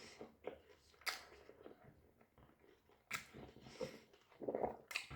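Close-up chewing and biting of a doner kebab, with a few sharp crunches spread through.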